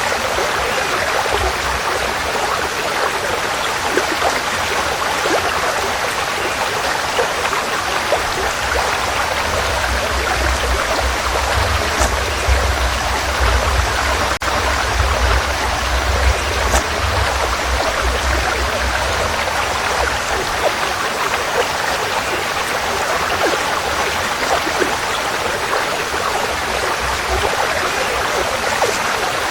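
Forest stream flowing, a steady rushing of water, with a low rumble swelling in underneath through the middle stretch.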